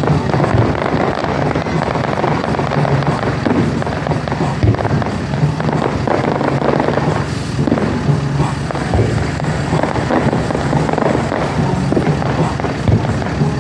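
Fireworks display: continuous crackling and bangs from exploding shells, with several sharper bangs standing out, over music playing.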